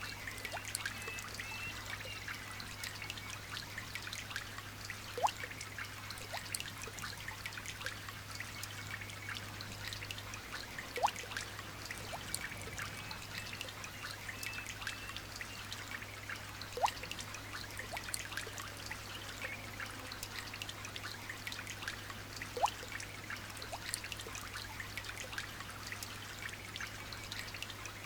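Light rain dripping and trickling: a dense patter of small drops, with a louder single drip about every six seconds. Faint bird chirps sit in the background, over a low steady hum.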